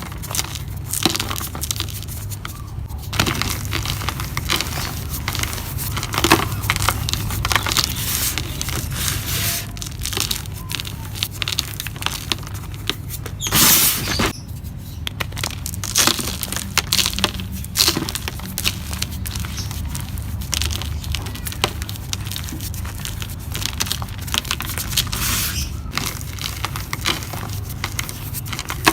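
Dry, hardened mud-and-cement cups crumbling and breaking apart in a continuous run of crackles and crunches, with one louder crunch about halfway.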